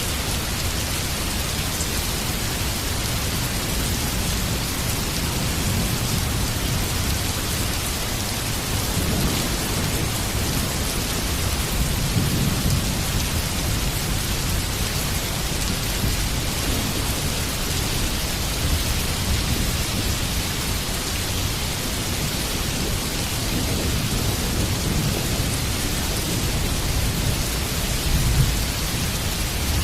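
Heavy rain falling steadily, with low rumbles of thunder swelling several times, the strongest about halfway through.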